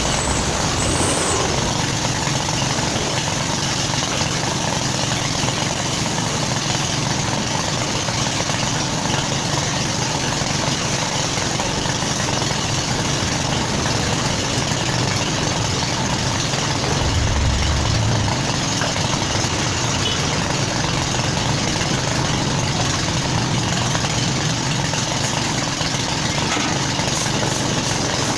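A heavy engine idling steadily under a constant hiss. About 17 seconds in, a deeper low rumble swells briefly.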